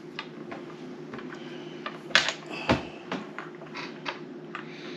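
Scattered light clicks and taps of game pieces being handled and set down on a table, with a few sharper knocks about two to three seconds in, over a steady low hum.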